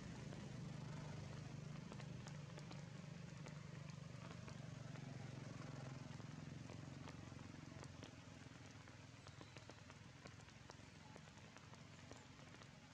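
Steady rain falling, with many scattered drop ticks, over a low steady hum that fades away after about eight seconds.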